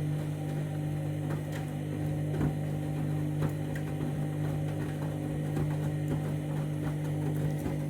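Candy Grand'O Vita 7 kg front-loading washing machine in its main wash, the motor humming steadily as the drum turns, with soft knocks from the tumbling wet load about once a second.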